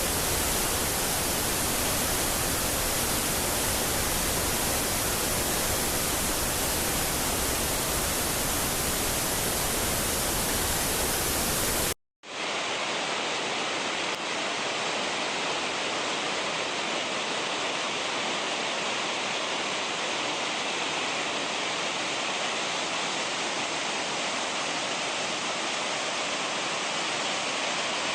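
Steady rush of water from a mountain stream or waterfall. About twelve seconds in it cuts out for a moment and returns thinner, with less low rumble.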